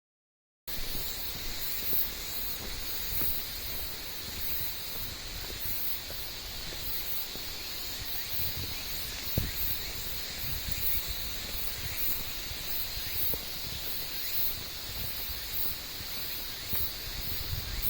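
Insects singing steadily in a constant high-pitched chorus, with a faster pulsing shrill line above it, over a steady low rumble. A single thump about halfway through.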